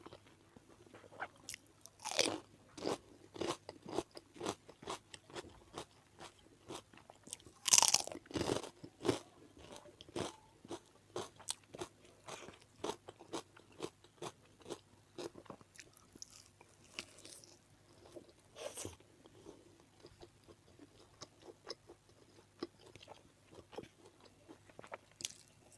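A person biting and chewing crunchy food close to the microphone: irregular wet crunches, with a louder bite about eight seconds in.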